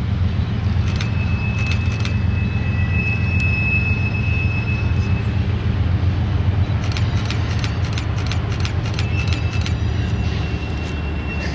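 A train rolling by with a steady low rumble. A thin high wheel squeal comes and goes, and a quick run of wheel clicks over rail joints starts about seven seconds in.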